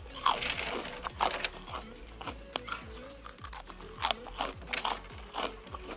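Close-up crunching and chewing of crisp fried snack sticks, a sharp crunch with each bite at uneven intervals, over background music with a steady beat.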